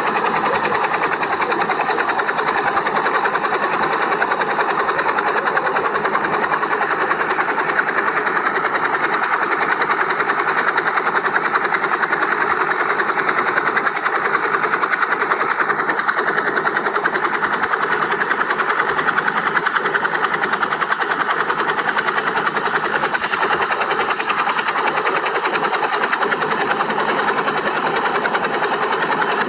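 Small RC helicopter's electric motors and rotor whirring steadily up close, with a thin high motor whine that drifts slightly in pitch as the speed changes.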